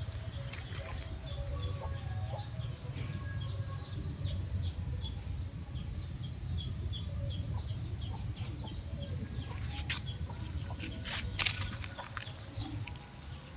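Small birds chirping over and over, short high chirps in quick succession, over a steady low rumble, with a few sharp clicks about ten and eleven seconds in.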